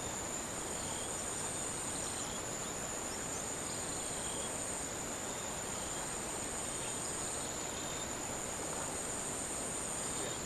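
Insect chorus calling steadily, a continuous high-pitched drone over an even background hiss.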